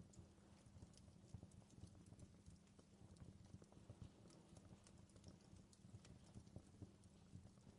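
Wood campfire crackling faintly, with scattered small pops and clicks over a low, steady rumble of burning.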